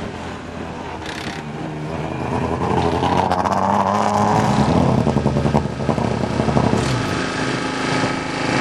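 Rally car engines running at low speed, revving up and down, with the sound changing to a different engine about seven seconds in.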